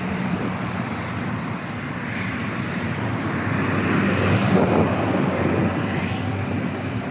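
Aircraft engine noise from a passing airliner, swelling to a peak about four to five seconds in and then easing, with wind on the microphone.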